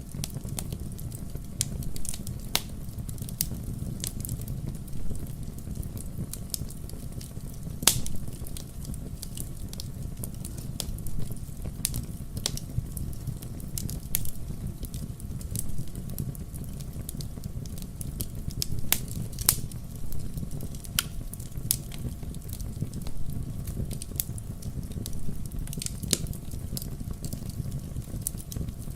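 Wood fire crackling: a steady low rush with irregular sharp pops and snaps from the burning logs.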